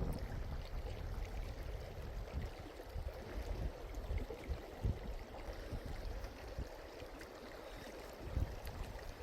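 Steady rushing noise like running water, with irregular low rumbling gusts of wind on the microphone.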